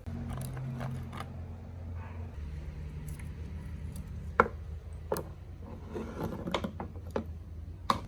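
Sharp metal clicks and knocks of tools and chainsaw parts being handled, the loudest about four seconds in, over a steady low hum.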